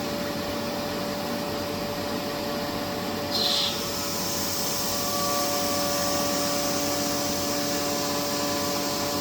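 Vacuum pump running steadily as it draws air out of a vacuum chamber, a constant hum with a steady whine, lowering the pressure to simulate a rocket's ascent. A short hiss sounds about a third of the way through.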